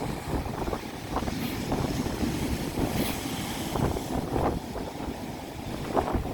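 Strong wind buffeting the microphone in an uneven low rumble, over sea waves breaking and splashing on the shore.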